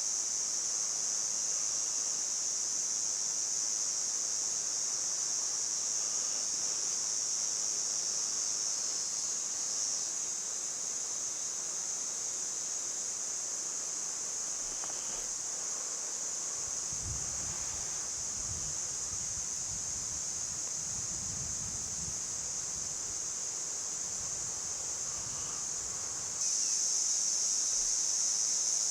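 Steady high-pitched chorus of insects, growing louder near the end. Low irregular rumbling joins in for several seconds in the second half.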